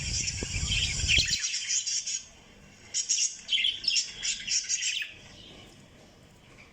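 Pet lovebirds chirping in quick, busy clusters, thick for the first two seconds and again from about three to five seconds in, then dying away. A low rumble runs under the chirps in the first second or so.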